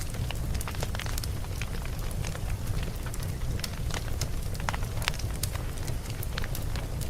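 Wood fire burning, with a steady low rumble and frequent irregular sharp crackles and pops from the burning logs.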